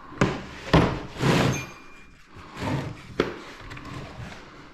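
A handful of separate knocks and clunks of hard tools and parts being handled and set down, about five of them in the first three and a half seconds.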